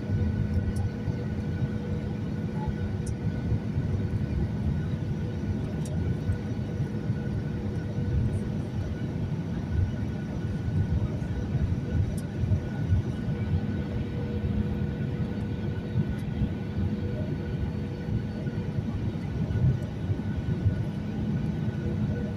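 Boeing 737-800 airliner landing: a steady rumble of engines and airframe, with a few faint steady hums over it.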